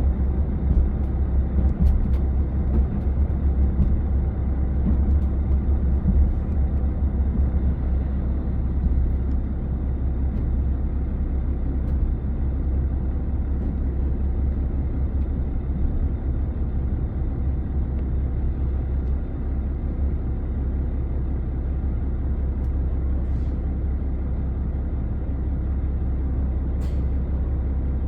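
Diesel express railcar running, heard on board: a steady low rumble of engine and running gear, a little more uneven for the first several seconds, then even. Two faint clicks come near the end.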